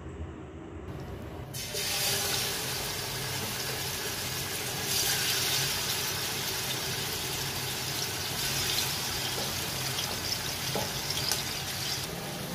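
Chicken pieces sizzling as they fry in hot oil. The sizzle starts suddenly about one and a half seconds in, as the chicken goes into the oil, then runs steadily, swelling briefly about five seconds in.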